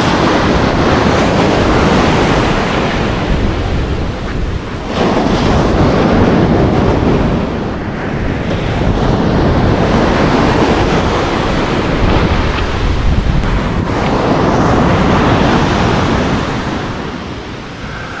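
Surf breaking on a beach, the waves surging and washing in and out every few seconds, with an offshore wind buffeting the microphone.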